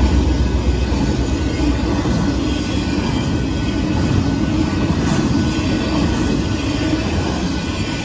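Union Pacific intermodal freight train passing close by at speed. A heavy low diesel locomotive rumble in the first second gives way to the steady rolling and rattling of double-stack container cars on the rails.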